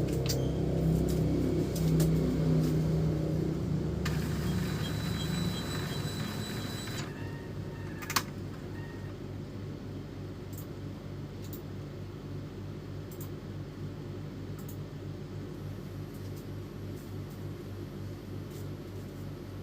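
Epson L310 inkjet printer's mechanism running at the start of a test print, with a replacement carriage motor fitted. Low motor and carriage noise is loudest for the first few seconds, then a thin high whine holds for a few seconds. A single sharp click comes about eight seconds in, and a quieter steady low hum follows.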